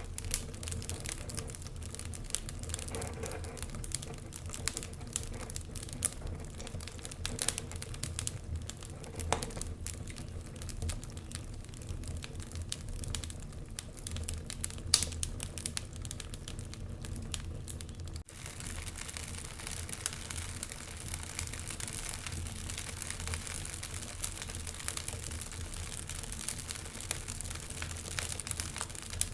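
Wood fire crackling in a fireplace: irregular small snaps and pops over a soft hiss and a low steady hum. About two-thirds of the way through the sound breaks off for an instant and resumes with a slightly brighter hiss.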